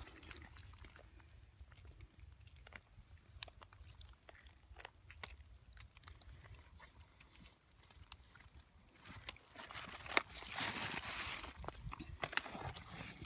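Scattered crunchy clicks and rustling from mushrooms and leaves being handled, with a louder stretch of rustling about nine seconds in.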